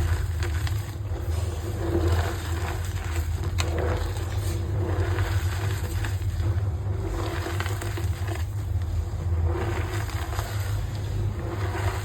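Reformed gym chalk being crushed and squeezed by hand, with irregular crunching and scraping. A steady low hum runs underneath.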